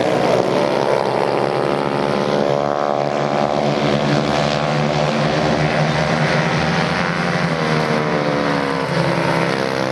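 Several racing motorcycle engines running hard together, a steady layered engine drone with pitch that shifts as the bikes change speed, sliding noticeably near the end.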